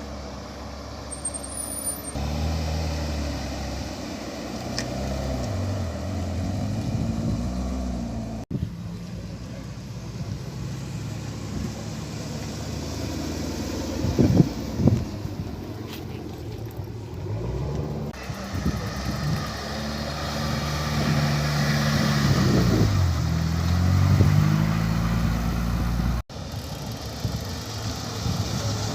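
Car engines running and revving as cars pull away and drive past, the engine pitch rising and falling several times. A couple of loud sharp cracks come about halfway through, and the sound breaks off briefly twice.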